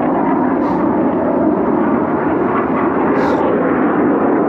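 Military jet flying overhead: a steady, loud jet engine noise.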